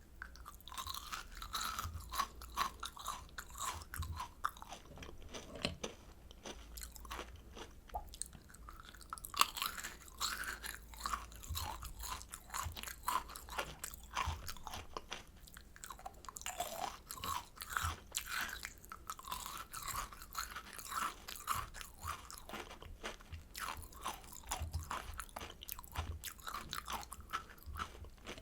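Close-miked chewing of kohakuto, Japanese crystal jelly candy: its thin crystallized sugar crust crunches and crackles in rapid, irregular little snaps between bites.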